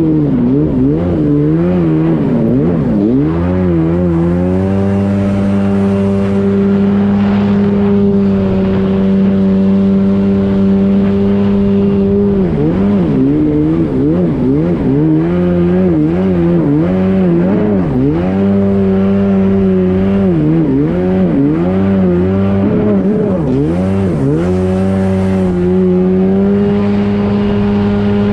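1993 Sea-Doo SPX personal watercraft's two-stroke twin engine running loud through a straight exhaust pipe, its waterbox muffler removed. The engine note holds steady for several seconds at a time, then wavers quickly up and down as the revs rise and fall.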